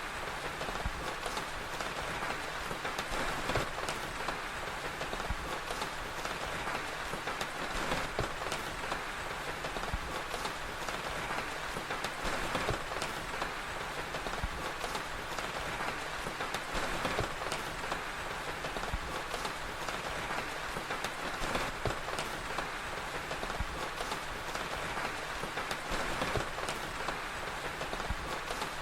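Steady rain ambience, an even hiss dotted with many small sharp crackles, as from a wood fire.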